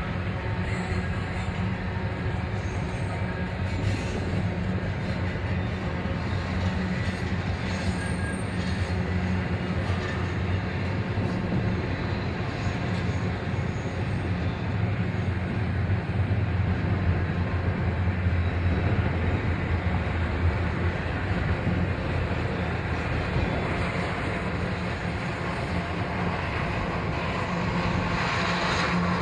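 A train running by with a steady, continuous rumble, a little louder partway through.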